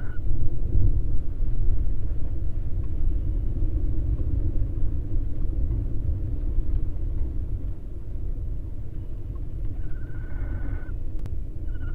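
Steady low rumble on an outdoor microphone, with a short high steady tone lasting about a second, about ten seconds in.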